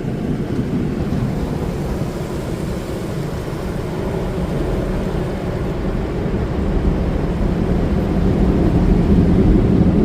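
Steady low noise of an automatic tunnel car wash's equipment, heard from inside the car's cabin as the Rain-X Graphene foam applicators coat the car. The noise grows louder about seven seconds in.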